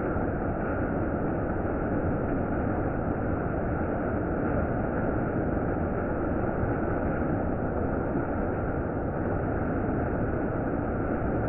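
Heavy monsoon rain falling in a steady downpour, an unbroken hiss and rumble with no separate thunderclaps.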